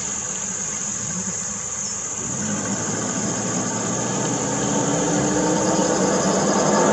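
Vehicle engine running at low speed, growing louder and a little higher from about halfway through, over a steady high insect drone.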